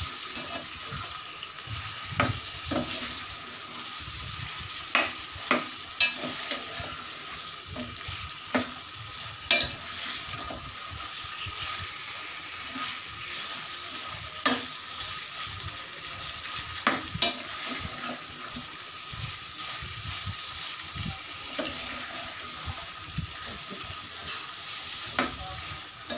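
Chicken pieces sizzling in hot oil in an aluminium karahi while being stirred with a metal ladle: a steady frying hiss with irregular sharp knocks and scrapes of the ladle against the pan. The chicken is being seared in oil until its colour changes, before the spices go in.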